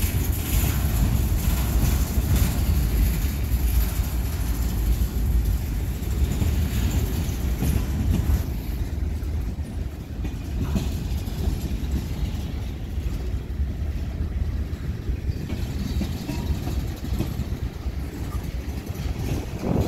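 Freight train rolling past on the track: a steady low rumble, with a high hiss over it for the first several seconds.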